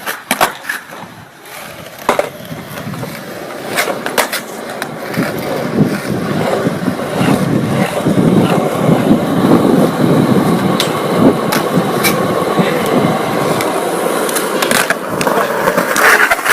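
Skateboard rolling on pavement: the wheels' rumble builds from about five seconds in and stays loud, with sharp clacks of the board being popped and landing, several in the first few seconds and more scattered through the middle.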